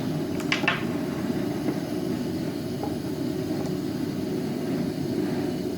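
Steady low mechanical hum, with a short hiss about half a second in.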